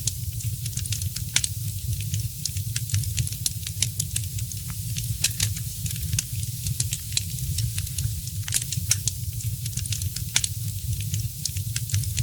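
Fireplace fire crackling, with frequent irregular sharp pops and snaps over a steady low rumble and hiss.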